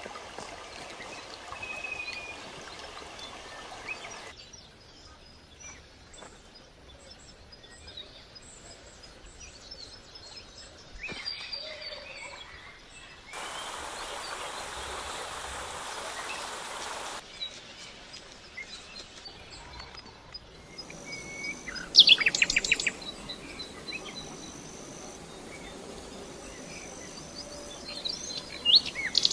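Wild birds chirping over outdoor ambience, with a loud burst of rapid chirps about two-thirds of the way through and another near the end. The background changes abruptly several times, and a steady hiss fills a few seconds in the middle.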